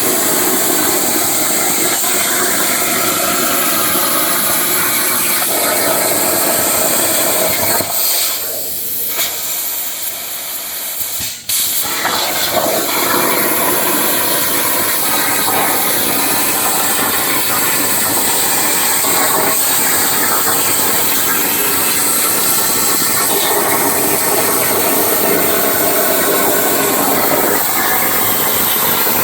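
Plasma cutting torch on a CNC plasma table cutting steel: a loud, steady hiss of the arc and compressed air. Around eight seconds in it cuts out for about three seconds, then the arc restarts abruptly and the hiss carries on.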